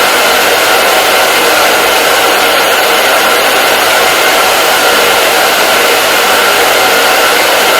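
Hair dryer running steadily on a constant setting: a loud, even rush of airflow with a faint steady motor whine, with no changes in speed.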